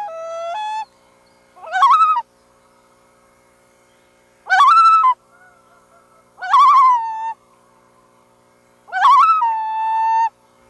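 Loons calling: a series of about five calls a second or two apart, each with a quavering, wavering note that in several calls settles into a held steady tone.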